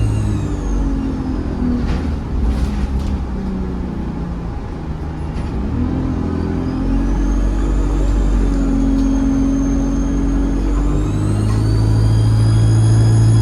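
ADL Enviro 200 bus diesel engine pulling under power with a loud, high turbocharger whistle. The whistle falls away at the start, then climbs again from about six seconds in, dips briefly and rises to hold high near the end. A few brief rattles come about two seconds in.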